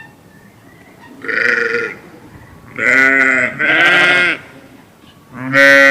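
A sheep or goat type bleating: four short calls, each well under a second, the last starting near the end.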